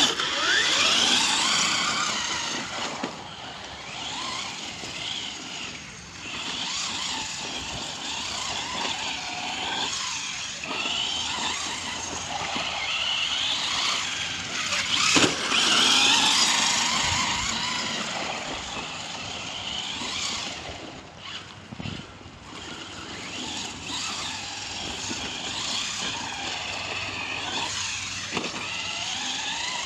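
Traxxas Slash 4x4 RC truck running: its electric motor and drivetrain whine, rising and falling in pitch again and again as it speeds up and slows down.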